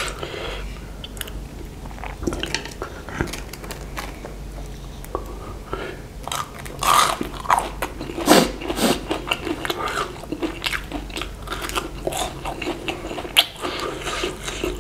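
A person biting and chewing a crumb-coated fried chicken nugget stick close to the microphone: crisp crunches and crackles, loudest about seven to nine seconds in.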